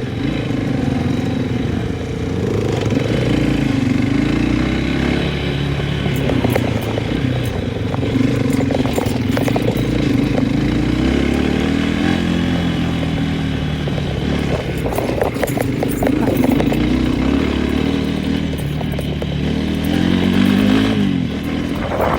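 An engine running throughout, its pitch rising and falling as the speed changes, with rattling and clattering over it.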